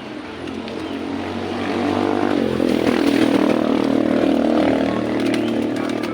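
A motor vehicle passing by on the road, its engine growing louder, loudest a few seconds in, then fading away.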